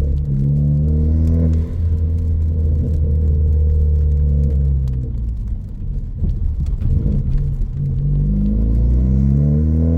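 2014 Ford Focus ST's tuned 2.0-litre turbocharged four-cylinder, with a high-flow catted downpipe and straight 2.5-inch exhaust, running under way. Its pitch rises at the start, holds steady, goes lower and rougher in the middle, and climbs again near the end.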